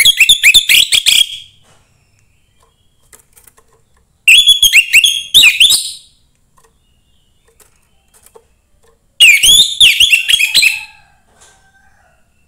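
Young wild orange-headed thrush singing three phrases of rapid, sharply gliding whistled notes, each about one and a half seconds long, roughly four to five seconds apart.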